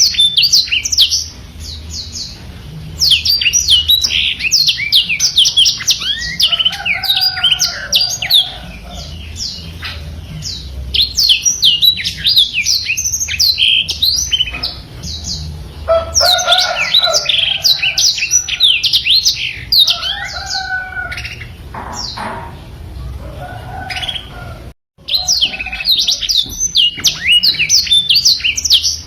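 Black-throated canary singing a long, fast, continuous twittering song of high, quickly sliding notes, with lower warbled phrases woven in. The song pauses briefly about a second in and cuts out for an instant near the end.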